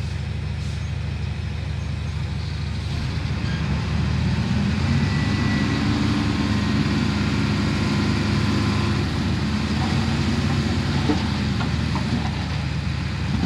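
Heavy diesel engine of earthmoving machinery running steadily, growing louder and working harder from about four seconds in.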